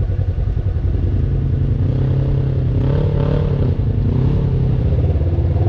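Off-road vehicle's engine running steadily at low revs on a trail, its pitch wavering up and down in the middle.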